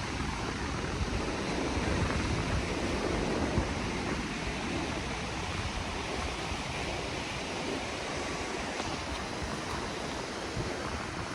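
Ocean surf washing ashore, with wind buffeting the microphone as a gusty low rumble; a steady rush of noise, a little louder for a few seconds near the start.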